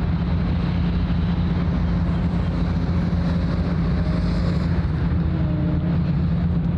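Steady low drone of a large ship's engines under way, with a constant outdoor noise haze over it.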